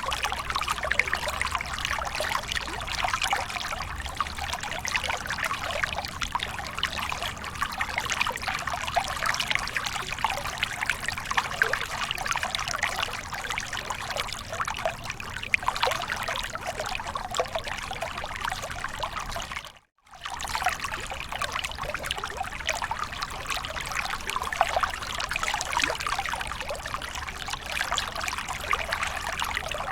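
Waterfall water splashing and trickling steadily, with a short break to silence about twenty seconds in.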